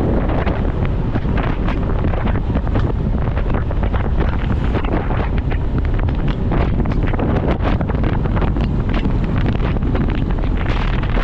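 Wind buffeting the microphone of a motorcycle under way, steady and loud, with the bike's running noise underneath.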